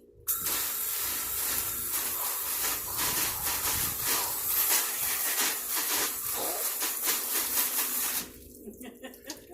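Garden hose spray nozzle on its shower setting, spraying water in a steady hiss that starts about a quarter second in and cuts off abruptly about eight seconds in, leaving a few drips.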